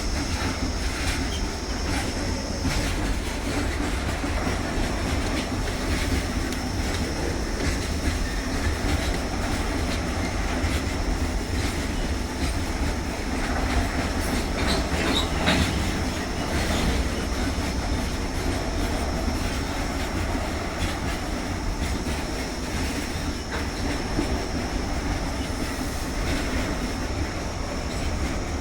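Loaded coal hopper wagons of a goods train rolling past steadily, wheels clicking over rail joints under a continuous rumble, with a thin high-pitched whine running through it.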